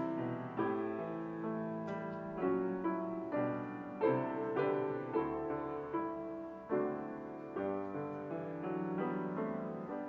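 Solo piano playing a slow, quiet prelude: chords and notes struck one after another and left to ring and fade.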